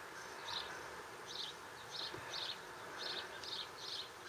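A small garden bird chirping over and over, short high notes about twice a second, against a steady outdoor hiss.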